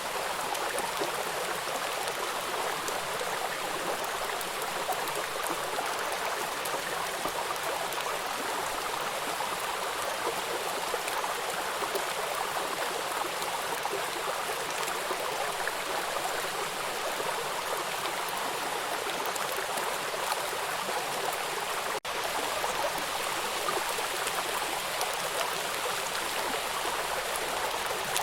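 Water rushing and splashing over rocks at a small river waterfall, a steady hiss with a split-second dropout about three-quarters of the way through.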